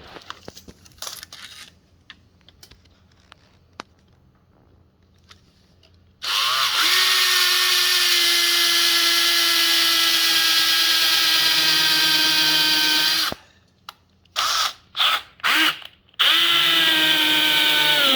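Power drill boring a hole through the plastic mounting plate of a Tesla Gen 3 Wall Connector. After a few seconds of light handling clicks, the drill runs in one steady seven-second whine that sags slightly in pitch under load. It then gives three short bursts and a final run.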